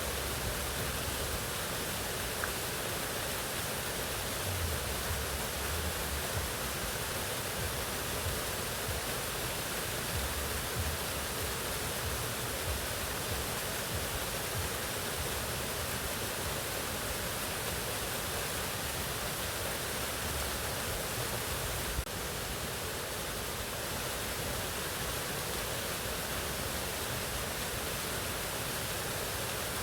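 Mountain waterfall rushing in a steady, dense wash of water noise, with one brief click about two-thirds of the way through.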